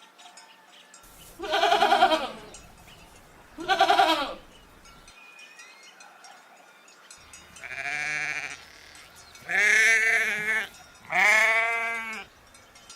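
Goat bleating five times, each bleat a wavering, quavering call.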